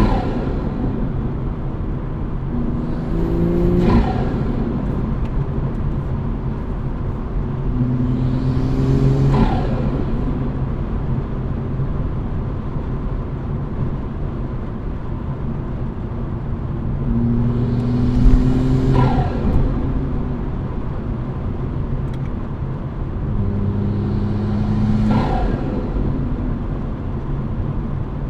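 Turbocharged Toyota Supra engine with an Armaspeed intake, repeatedly accelerating, its note climbing and then dropping. At each drop a falling turbo whistle and flutter sounds, about five times.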